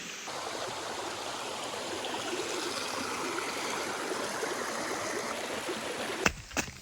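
Steady rush of flowing water from a rainforest stream. It cuts off abruptly near the end, and a few sharp clicks follow.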